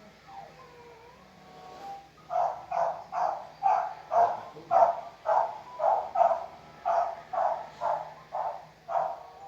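Puppy yapping: a long run of short, high barks, about three a second, starting about two seconds in after some faint whining.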